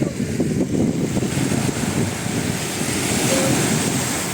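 Wind buffeting the microphone in uneven gusts over a steady wash of sea surf, with the hiss swelling about three seconds in.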